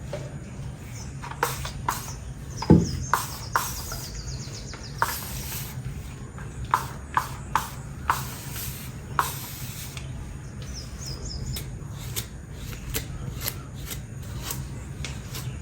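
Short trilling bird chirps twice, among scattered sharp clicks and knocks over a low steady hum.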